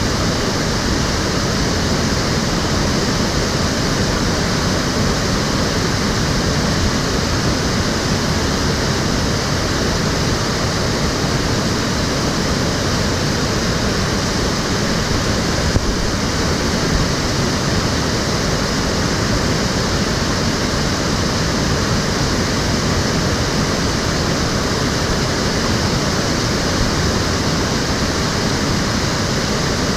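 Stream water flowing and splashing in a steady, even rush.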